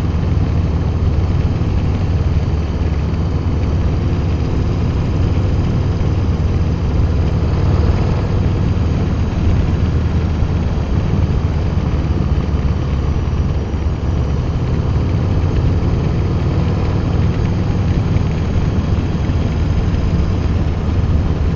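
Harley-Davidson Low Rider ST's Milwaukee-Eight 117 V-twin running through TAB Performance slip-on mufflers with medium baffles while cruising, on a Screamin' Eagle Stage 1 tune. The exhaust note is steady, with little change in engine speed.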